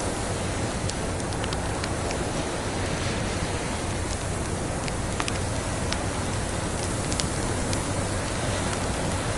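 Wood fire crackling in a fireplace: irregular sharp snaps and pops from burning dry logs over a steady hiss.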